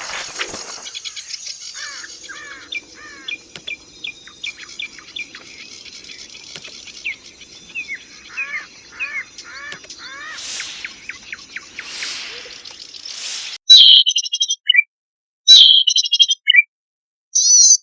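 Cici padi (zitting cisticola) singing: a run of short, repeated chirps, then from about two-thirds of the way in much louder, sharp repeated notes in short bursts separated by silences.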